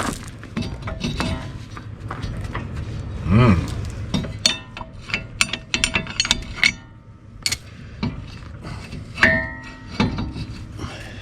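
Steel brake parts clinking and knocking as the brake rotor is fitted back onto the wheel hub over the new lug studs, with a run of sharp clinks in the middle and a single ringing clank about nine seconds in.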